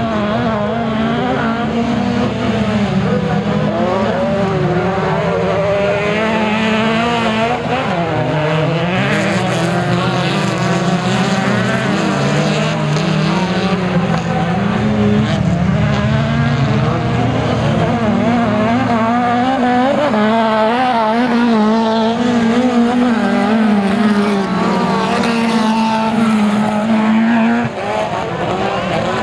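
Autocross race car engines running hard, their pitch rising and falling constantly as they rev up and back off through the gears. More than one engine note is heard at once.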